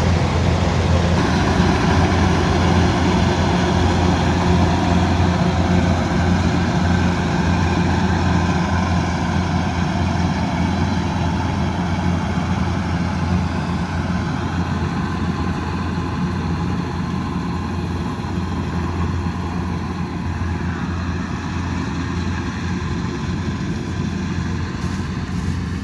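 Combine harvester's diesel engine running steadily with a deep, even hum, easing a little in level over the stretch.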